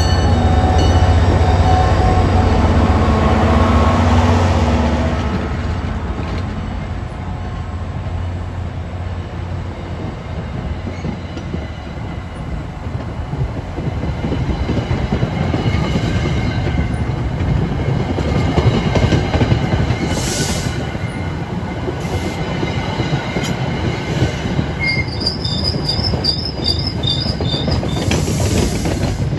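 MBTA EMD GP40MC diesel locomotive passing close by, its engine rumbling loudly for the first few seconds. The commuter coaches then roll past with steady wheel-and-rail clatter over the rail joints, and a brief high wheel squeal near the end.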